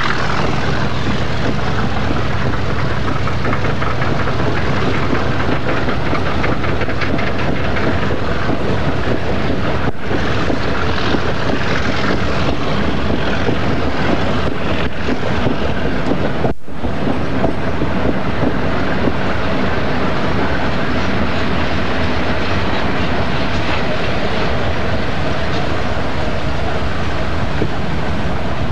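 Diesel-hauled freight train of hopper wagons rolling past, the wheels clicking over the rail joints. A low locomotive engine hum under it fades out about three-quarters of the way through. There is a brief dropout near the middle.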